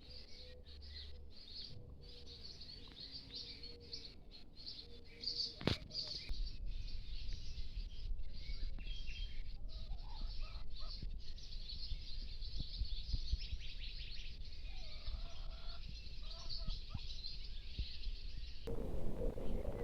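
American goldfinches twittering, a continuous run of rapid high chirps. There is a sharp click about six seconds in, and a low rumble underneath from then on.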